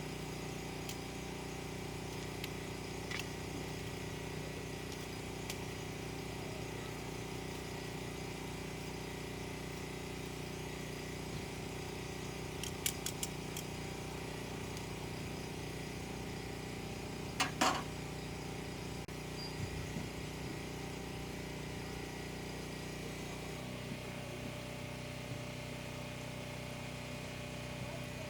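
An engine running steadily with a low, even hum; its pitch changes about three-quarters of the way through. A few light clicks come midway, followed shortly by a louder knock.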